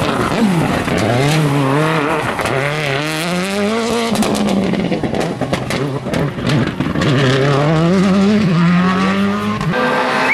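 Rally car engine at high revs, climbing through a gear, dropping sharply at a shift about four seconds in, then climbing again. A series of sharp cracks sounds in the middle, while the revs are low.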